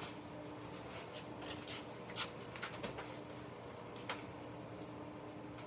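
Scattered light clicks and taps of a plastic slot car being handled and set back onto the track, over a faint steady hum.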